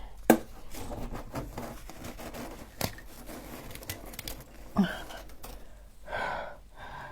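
Scraping and prying at packed frost and ice with a hard utensil, with a few sharp clicks.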